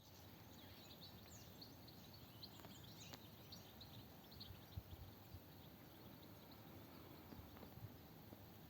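Near silence: quiet open-air ambience with faint, scattered bird chirps, thickest in the first four seconds.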